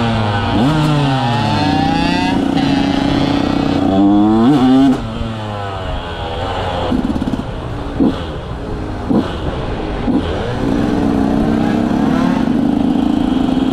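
KTM 125 SX single-cylinder two-stroke motocross bike with an FMF exhaust, revving up hard with quick gear changes in the first five seconds. It then comes off the throttle, with a few short blips, and holds a steadier pitch near the end.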